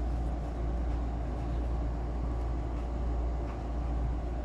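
Steady low machine hum with several even overtones, running unchanged throughout.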